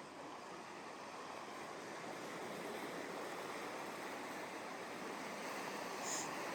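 Ocean surf washing on a sandy beach: a steady rush of breaking waves that swells slowly louder. A brief high-pitched blip comes near the end.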